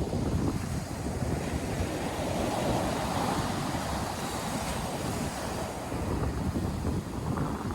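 North Sea surf washing onto the shore in a steady rush, with a wave surging up about three seconds in. Wind buffets the microphone underneath with a low rumble.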